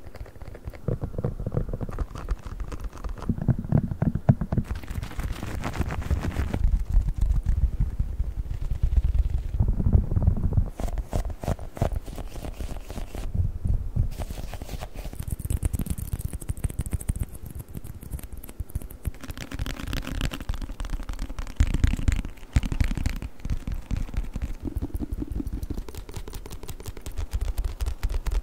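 Rapid ASMR tapping on a series of different objects, the sound of the taps changing every few seconds as one object gives way to the next, some deep and thudding, some brighter and clicky.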